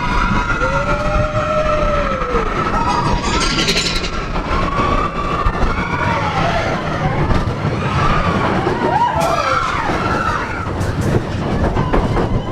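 Mine-train roller coaster running along its track: a steady rumble of the cars on the rails, with wavering squeals that rise and fall over a second or two each, several times.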